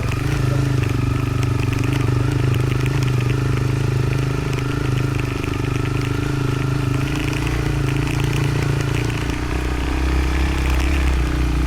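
Motorcycle engine running steadily under way, then dropping to lower revs about nine to ten seconds in.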